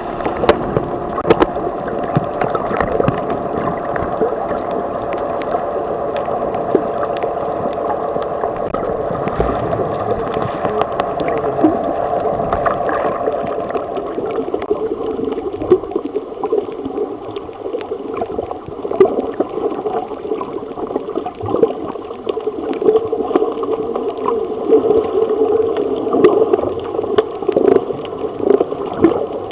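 Underwater sound picked up by a camera while snorkelling: a muffled, steady hum with several held tones, scattered crackling clicks and water gurgling. About halfway through, the hum drops to a lower pitch.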